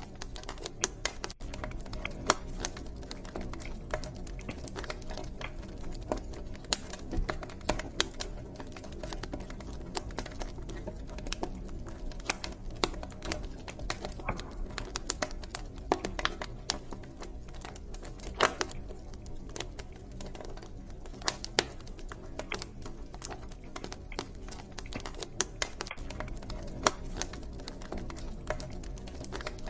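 Wood fire crackling in a fireplace: irregular sharp pops and snaps, several a second, over a steady low background of the burning fire.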